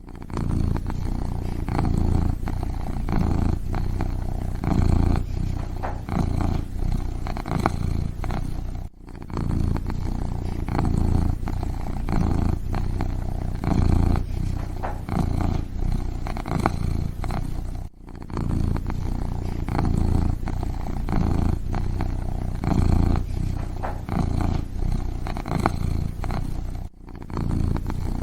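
Kitten purring close up, a continuous low rumble that swells and eases in an uneven rhythm, dropping out briefly about every nine seconds.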